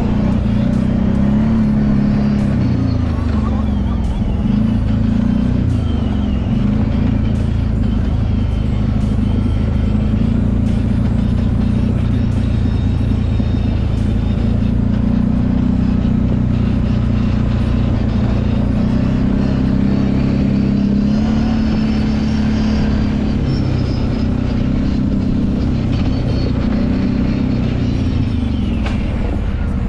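Kawasaki Brute Force 750 ATV's V-twin engine running under changing throttle while trail riding, its pitch rising and falling with speed.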